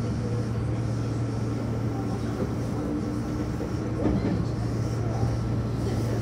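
Inside a Meitetsu express train on the move: steady running noise of the car with a low hum, and a brief louder knock about four seconds in.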